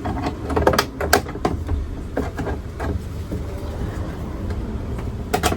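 Scattered clicks and knocks of parts and tools being handled inside a truck's driver's door with the door card off, clustered at the start and with a sharp pair near the end, over a steady low hum.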